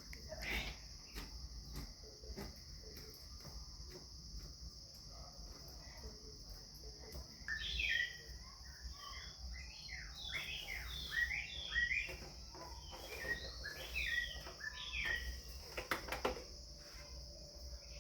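Steady high-pitched insect drone, like crickets, with a bird calling in a run of short, falling chirps for several seconds from about the middle. A few sharp clicks come near the end.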